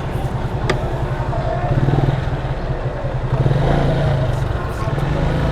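Motorcycle engine idling steadily, with faint voices in the background and a single sharp click less than a second in.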